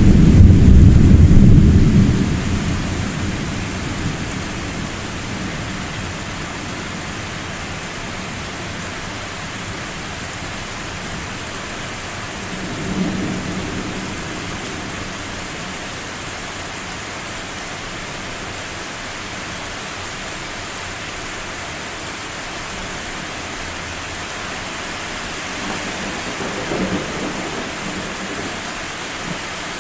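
Thunder rumbling, deep and loud at the start and dying away over the first few seconds, then two fainter low rumbles, one about halfway in and one near the end. Steady rain hisses underneath.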